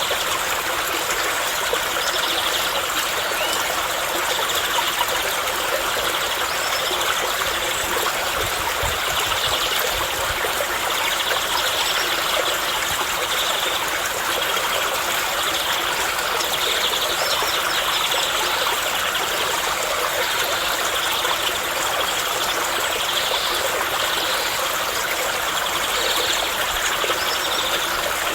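Water of a stream flowing steadily, a constant even rush with a light trickling texture.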